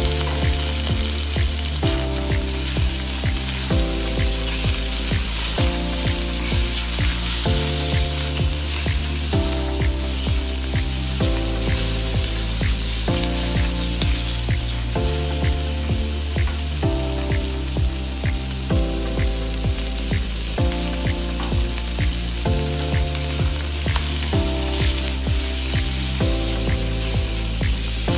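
Cubed pork belly sizzling as it fries in a hot wok. Under it runs background music with a steady beat and chords that change about every second.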